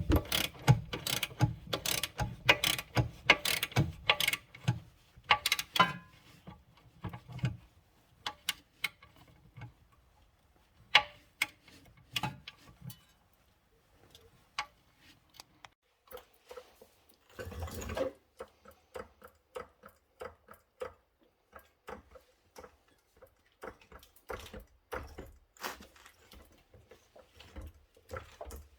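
Mechanical clicking of hand tools at work: quick runs of several clicks a second for the first six seconds, then scattered clicks, with a short rasping burst about 17 seconds in.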